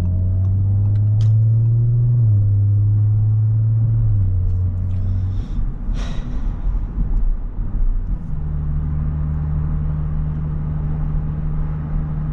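Audi S5's engine droning inside the cabin as the car pulls away: its pitch climbs and drops suddenly at upshifts about two seconds and four seconds in, then settles into a steady hum at cruise. A single sharp click sounds about six seconds in.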